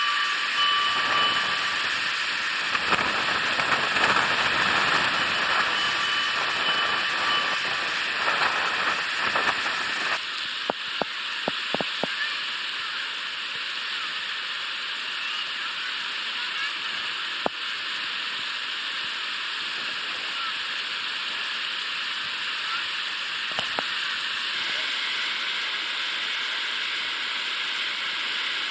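Steady rushing of a typhoon-swollen river in flood. For about the first ten seconds, a loudspeaker announcement and short tones from a public-address vehicle sound faintly over it.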